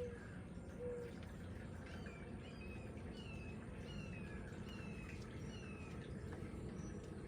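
Birds calling outdoors over a steady low background rush. A short low cooing note sounds at the start, then from about two seconds in comes a run of six or seven high whistled notes, each falling slightly in pitch.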